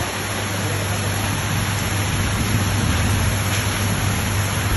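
Steady hiss of heavy rain, with a steady low hum underneath.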